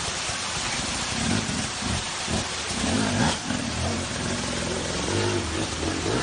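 Motorcycle engine revving up and down, its pitch rising and falling repeatedly, over a steady rushing hiss.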